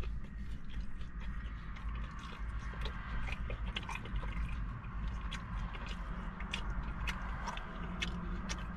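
A person chewing and biting food close to the microphone, with many small, sharp mouth clicks, over a steady low hum.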